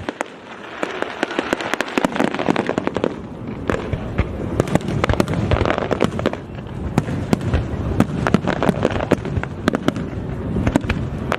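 Fireworks display in full flow: many sharp cracks and booms going off in rapid succession, a little thinner for the first second or two, then densely packed.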